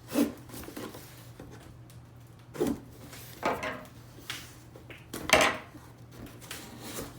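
A package being opened and handled by hand: a handful of short knocks and scrapes, the loudest about five seconds in.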